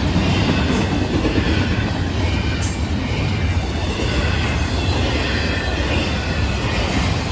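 Steady rumble and clatter of the steel wheels of intermodal freight cars rolling past on the rails of a Florida East Coast Railway train.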